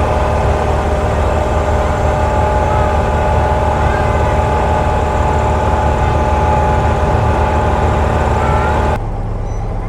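Boat engine running steadily with a low, even hum. About nine seconds in, the sound drops abruptly to a quieter, thinner hum.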